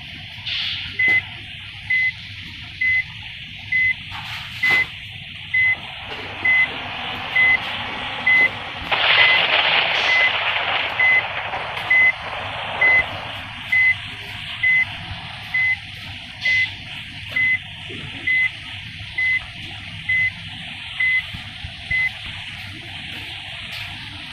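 A vehicle's reversing alarm beeping steadily on one pitch, a little under once a second, about two dozen times before it stops near the end, over the noise of traffic, with a louder rush of noise for a few seconds midway.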